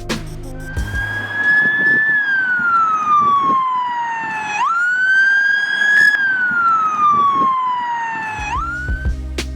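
Police car siren wailing: each cycle climbs a little, then sweeps slowly down in pitch before jumping sharply back up, repeating about every four seconds.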